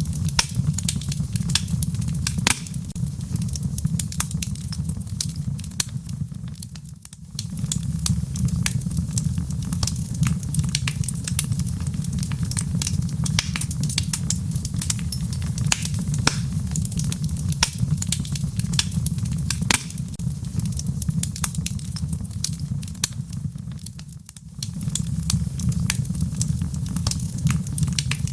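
Wood fire crackling: a steady low rumble of burning with frequent sharp pops and snaps. The sound briefly drops away twice, about a quarter of the way in and again near the end.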